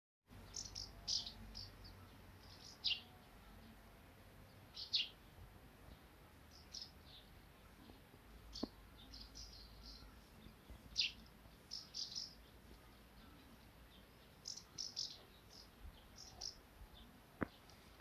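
Small birds chirping: short, high calls in scattered clusters every second or two, over a faint outdoor background.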